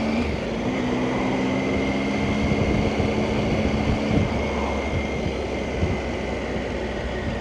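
Motorcycle engine running at a steady pace on the road, with constant wind and road noise. The engine note drops away about four seconds in.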